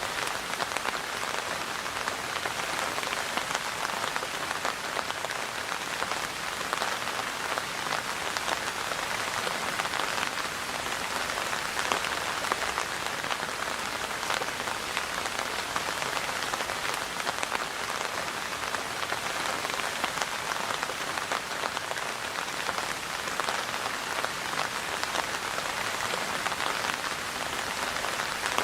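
Steady rain falling on a surface, a dense even patter of drops with many small individual drop ticks.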